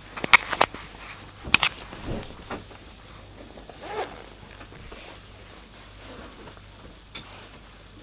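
Inside a passenger train carriage: a low steady hum, with a few sharp knocks and clicks in the first two seconds and a short squeak about halfway through.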